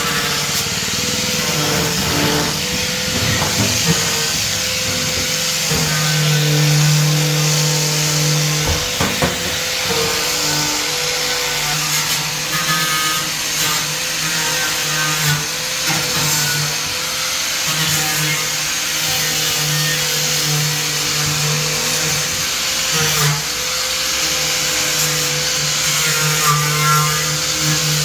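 A power tool running steadily with a constant whine, a lower hum coming and going every few seconds.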